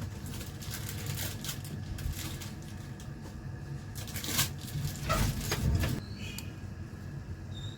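A repaired laptop speaker playing the background sound of a football match broadcast, as a test of the speaker: a steady noisy hum with louder surges between about four and six seconds in.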